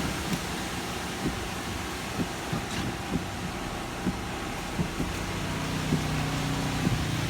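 A steady low engine hum, with soft knocks about once a second.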